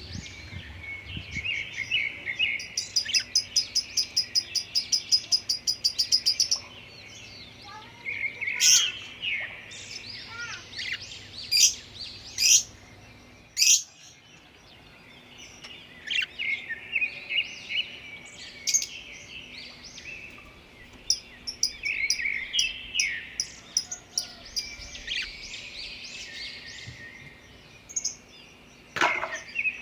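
Lutino budgerigar warbling and chattering, with sharp chirps. A few seconds in comes a quick run of evenly repeated notes, about five or six a second, lasting some three seconds.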